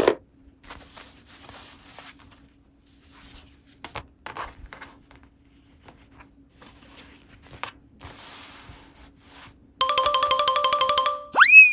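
Soft clicks and rustles of small plastic toy pieces being handled. Near the end comes a loud rapid electronic trill, about a second and a half long, then a rising cartoon 'boing' whoop.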